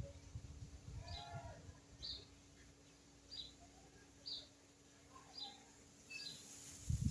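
A bird chirping short, high notes about once a second, over a faint low rumble, with a low thump right at the end.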